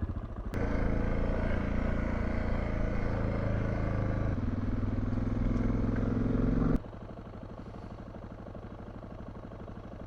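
Motorcycle engine running while riding, with a change in its note about four seconds in. It drops suddenly to a quieter, evenly pulsing engine sound a little before the last three seconds.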